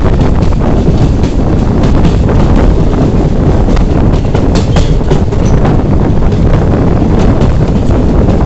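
A moving passenger train: a steady, loud rumble of coach wheels on rail with scattered clicks, and wind buffeting the microphone.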